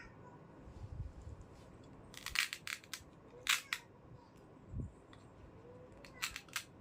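Hard plastic toy pieces clicking and clacking together in three short bunches of sharp clicks, with a few soft thumps between them.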